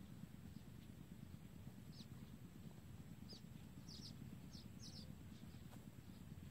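Faint, high, short chirps of a small bird, about six quick notes in the middle stretch, over a low steady rumble.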